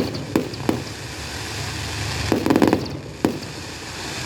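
Fireworks shells bursting in the sky: a few sharp bangs in the first second, a quick rattling cluster of crackling reports a little past two seconds, then one more bang, over a low steady hum.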